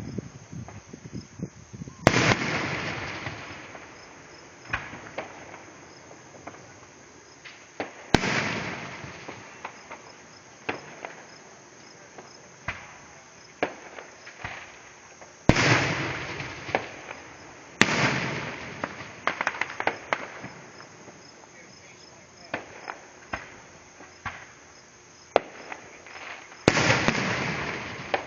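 Fireworks going off: five big booms, several seconds apart, each trailing off in a long crackling decay, with smaller sharp pops and crackles between them.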